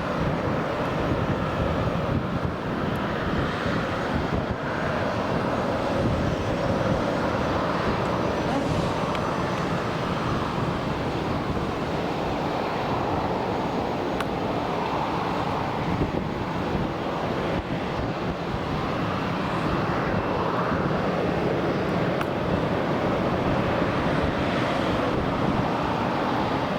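Jet airliner engines sounding steadily, with a tone that slowly wavers up and down in pitch.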